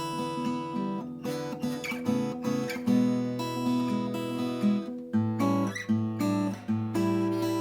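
Acoustic steel-string guitar being played: picked and strummed chords ring out over bass notes, changing about once a second.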